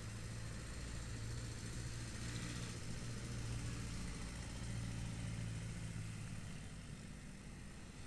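Motorcycle engine running at a steady low hum, as if idling, with road and traffic noise behind it; the hum fades away near the end.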